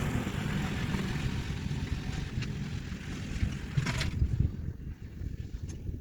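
Kioti DK4710SE tractor's diesel engine running, with wind buffeting the microphone; a brief clatter about four seconds in.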